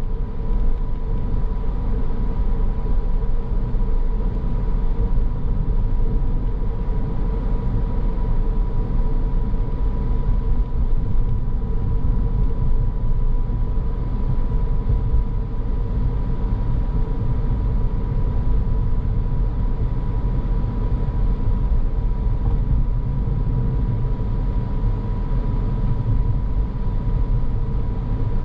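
Car on the move: steady road and engine noise with a deep rumble, and a thin, unchanging whine above it.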